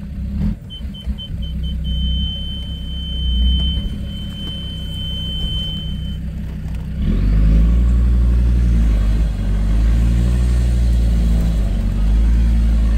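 Land Rover Discovery 2 engine working under load as it crawls over rough off-road ground, heard from inside the cab. A few quick high electronic beeps run into one steady beep tone that stops about six seconds in, and about seven seconds in the engine gets louder as it works harder.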